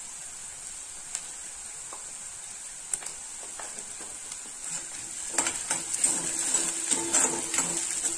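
Chopped onion, green chilli and capsicum sizzling in oil in a stainless steel kadai: a steady high hiss with a few light clicks. From about five seconds in, a steel spoon stirs and scrapes against the pan, louder and busier.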